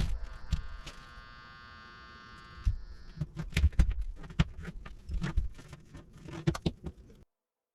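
Neon sign transformer buzzing steadily for nearly three seconds, followed by an irregular run of knocks and clicks, then the sound cuts off abruptly.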